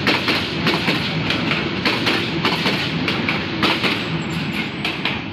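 Bangladesh Railway intercity passenger coaches rolling past close by. Their wheels keep up a steady, rapid clicking and clattering on the rails, and the noise begins to drop off right at the end as the last car goes by.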